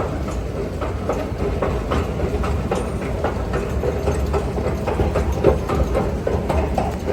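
KONE escalator running: a steady mechanical rumble with a stream of irregular clicks and rattles from the moving steps.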